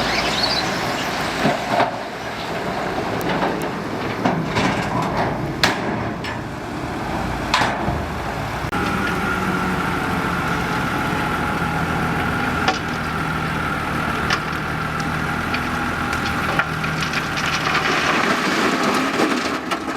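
Dump truck unloading soil: a diesel engine runs under a steady rush of earth and rock sliding out, with many sharp knocks and clatters. A steady high whine comes in about halfway.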